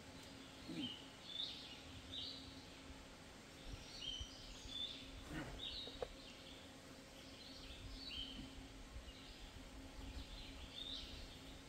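Woodland songbirds singing short, high chirping phrases over and over, with a faint steady low hum beneath and a single sharp click about six seconds in.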